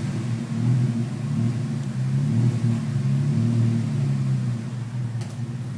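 Jeep engine running loud through a new aftermarket exhaust, the note rising and falling gently with the throttle, with one brief sharp pop about five seconds in.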